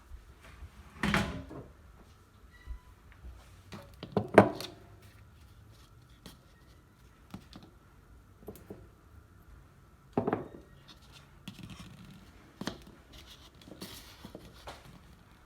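Kitchenware being washed up in a sink: a pan and dishes knocking and scraping, with louder clunks about a second in, about four seconds in and about ten seconds in, and lighter clicks between.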